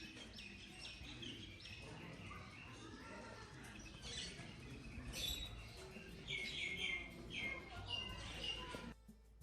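Many small birds chirping, short calls repeated quickly one after another, growing busier in the second half and cutting off suddenly near the end.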